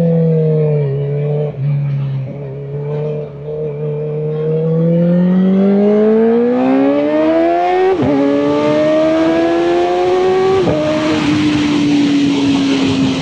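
Kawasaki Ninja ZX-4RR's inline-four engine pulling through the gears under acceleration. The pitch climbs and then drops sharply at an upshift about eight seconds in, and again near eleven seconds, before holding steadier as wind noise builds.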